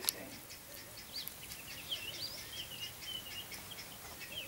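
Small birds chirping and twittering, many short calls sliding up and down in pitch, with a single sharp click right at the start.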